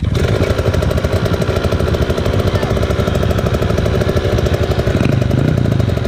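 Husqvarna TC85's 85 cc two-stroke single-cylinder engine catching and running with a fast, rattly buzz. It comes in abruptly over another motorcycle engine that is already running.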